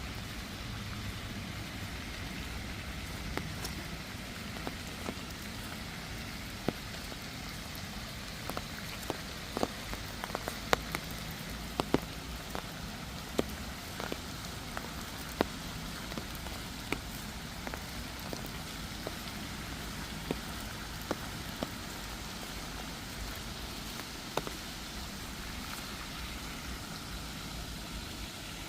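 Rain falling: a steady hiss, with scattered sharp ticks of drops striking close by, most frequent in the middle stretch.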